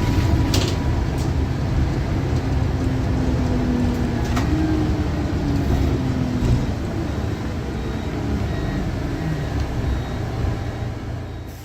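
Service bus's diesel engine running under way with a turbocharger whistle, a pitched tone that rises about halfway through and then slowly falls over a steady low rumble, with a few clicks and rattles; the sound fades out at the end.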